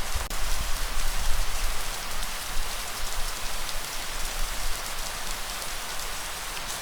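Steady heavy rain, a dense even hiss with scattered drop ticks. A low rumble underlies it, strongest over the first two or three seconds.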